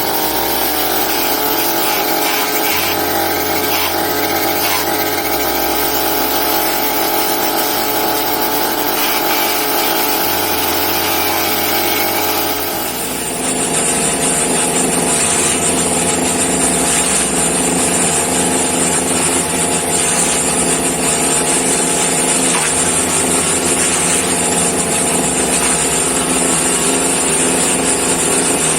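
Homemade grass-chopping machine running steadily with a constant whine. About halfway through, the sound changes, getting a little louder and gaining a strong high hiss.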